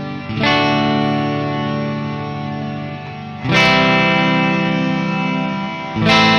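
Electric guitar (Jackson SL2 Pro Soloist) on its bridge pickup: three chords struck about three seconds apart, each left to ring out and slowly fade.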